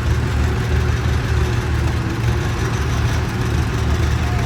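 Tractor engine running steadily at low speed close by, a continuous deep rumble.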